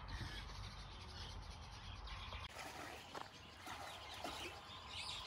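Faint calls and chirps of aviary birds over outdoor background noise, with a low rumble that drops away about halfway through.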